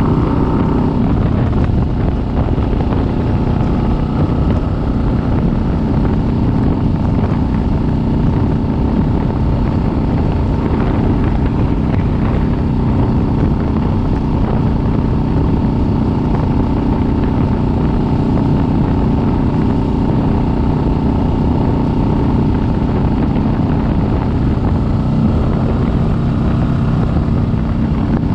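Kawasaki Vulcan S 650's parallel-twin engine running steadily under way, with no big revs or gear changes, mixed with road noise.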